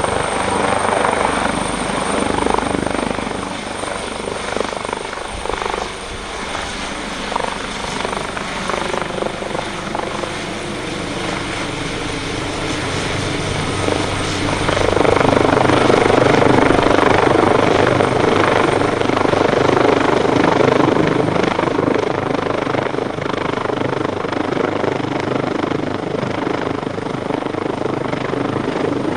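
AgustaWestland AW139 helicopter running: the noise of its two Pratt & Whitney Canada PT6C turboshaft engines and its five-bladed rotor. A tone falls slowly in pitch over the first part, and the sound grows louder about halfway through.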